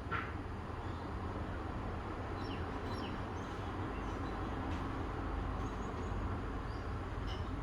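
Outdoor morning ambience: a steady low rumble under a few faint, short bird chirps, mostly about two and a half to three seconds in.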